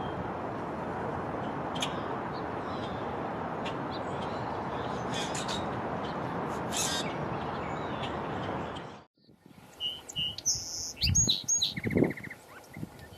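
Small birds chirping over a steady, even noise. About nine seconds in the noise cuts off, and clearer high whistled chirps and a short rapid trill follow, with a few low thumps.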